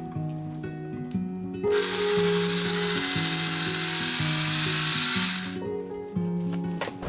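Background music with a steady melody, over which a small electric motor runs with a whirring hiss for about four seconds, starting and stopping abruptly.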